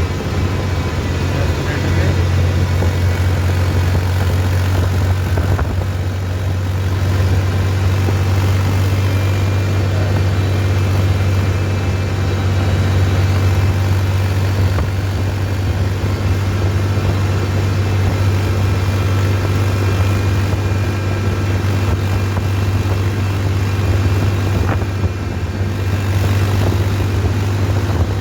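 Tractor engine running at a steady, constant speed: a deep, unbroken drone.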